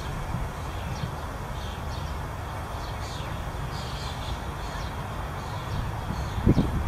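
Birds chirping faintly in short scattered calls over a steady low outdoor rumble, with a brief low thump near the end.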